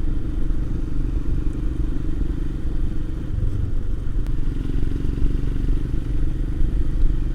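Royal Enfield Himalayan's single-cylinder engine pulling steadily at cruising pace, a relaxed, even exhaust beat.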